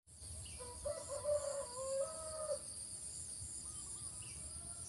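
A bird gives one drawn-out call of about two seconds, near the start, over a steady high-pitched buzz of insects.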